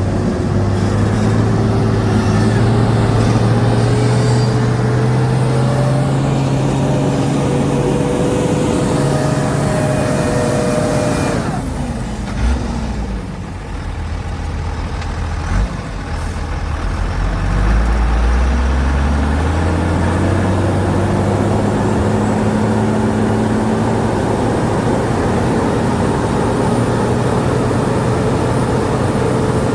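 Diesel engine of a Shantui DH17C2 bulldozer running under load, dropping to idle about 12 seconds in and revving back up a few seconds later, with a couple of short clunks during the lull.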